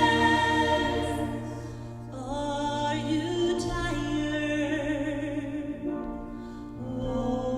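Gospel choir singing a slow song with musical accompaniment, in long held notes with short breaks between phrases about two seconds in and again near the end.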